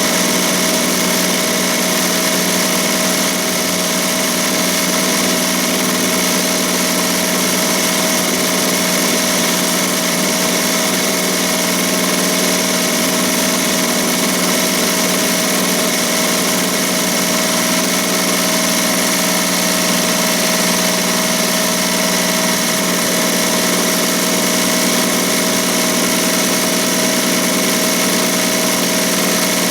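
ZSK Sprint 10-needle commercial embroidery machine running steadily, stitching at about 1200 stitches per minute.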